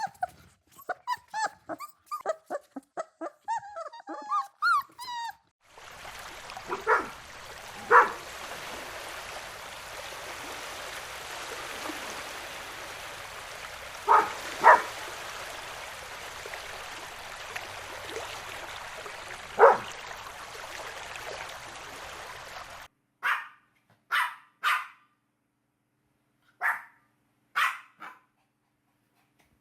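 Puppies whining and yipping in a rapid string of high cries. Then, over a steady background hiss, a few sharp barks in ones and twos. Near the end come single barks with silence between them.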